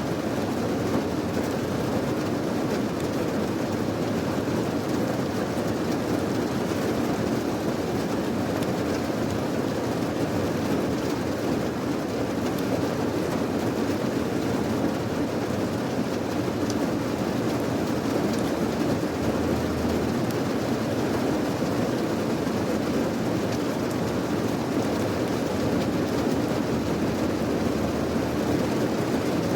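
Steady rain, an even rushing noise that keeps the same level throughout, heavier in the low and middle range than in the hiss.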